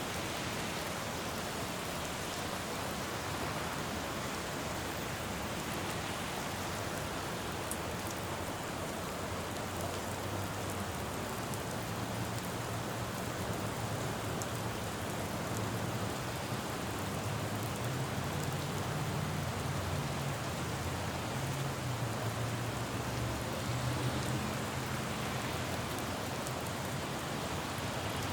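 Steady rain falling on a road. Through the middle a low traffic rumble swells and fades.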